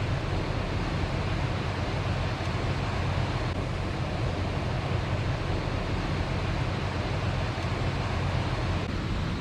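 Small creek waterfall, its water rushing in a steady, even wash.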